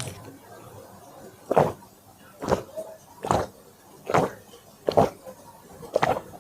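Close-miked chewing of crunchy food, with a sharp crunch repeating evenly a little under a second apart, about six times.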